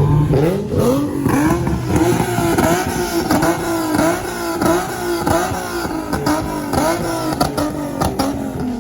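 Car engine revving hard: its pitch climbs over the first second, then bounces up and down about three times a second, falling away near the end.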